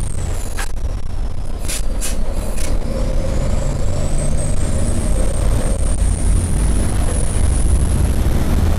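Racing trucks' diesel engines running loud with a deep rumble. A high whistle glides down and then rises, and a few short hisses of released air come in the first three seconds.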